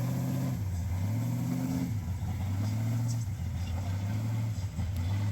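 Car engine running, its low note shifting up and down a little several times.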